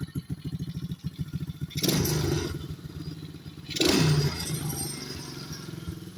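Small gasoline engine idling with a rapid, even putter, revved twice in short bursts, about two seconds and about four seconds in.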